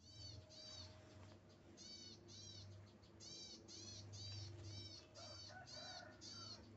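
A bird calling over and over, faint: short rise-and-fall whistled notes at about two a second, with a weaker, lower warbling call joining about five seconds in.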